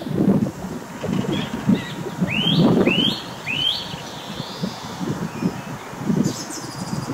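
A bird calls three rising whistled notes about half a second apart. Gusty wind rumbles on the microphone throughout.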